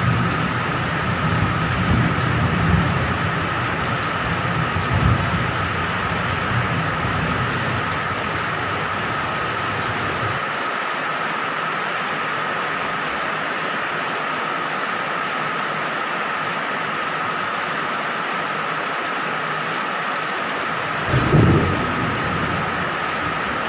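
Steady rain falling, with low rolls of thunder rumbling through the first half and a louder rumble of thunder about 21 seconds in. A thin steady tone runs under the rain.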